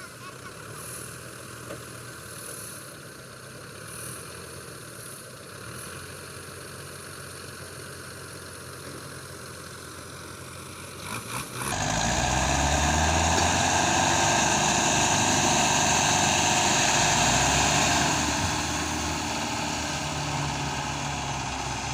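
Tractor diesel engine running. About twelve seconds in, the sound jumps abruptly to a much louder, closer engine whose pitch rises and falls, easing off a few seconds before the end.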